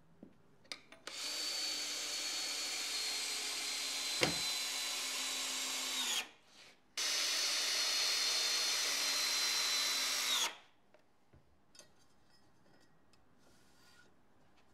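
A handheld power tool runs in two bursts, about five seconds and then three and a half seconds, each with a steady high whine and each stopping abruptly, with a sharp click partway through the first.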